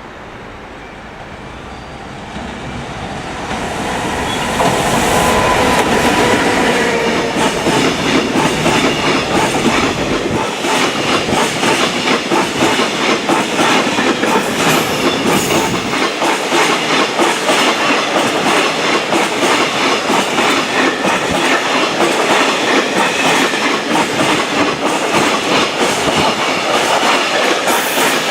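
A freight train hauled by an EF210 electric locomotive passes at speed. The sound builds over the first four seconds as it approaches, then the lightly loaded wagons' wheels clatter over the rail joints in a fast, steady rhythm.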